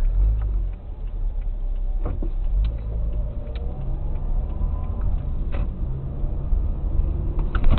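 Low, steady rumble of a car driving, with a few faint knocks.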